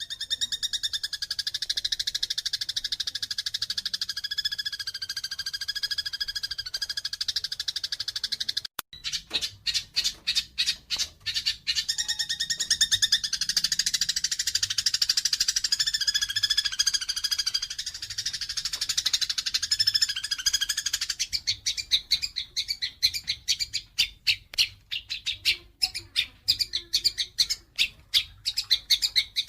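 Eurasian tree sparrows (burung gereja) chirping rapidly and without pause, the excited calls of sparrows fighting. There is a brief gap about nine seconds in, then the calls go on as quick runs of separate sharp chirps.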